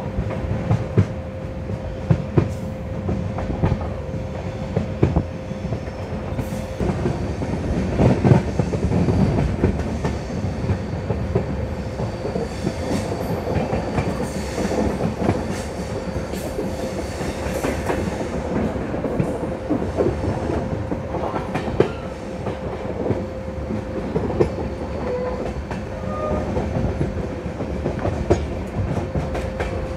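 Passenger train coaches running at speed, heard from the open door: a steady rumble of wheels on the rails with a clickety-clack and sharp knocks now and then over the rail joints, under a faint steady whine.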